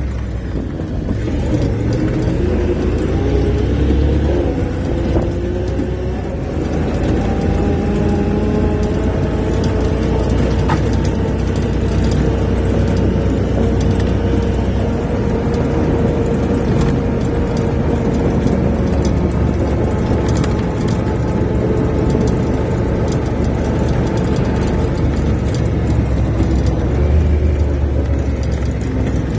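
A motor running steadily under a heavy low rumble, its pitch rising over the first several seconds and then holding.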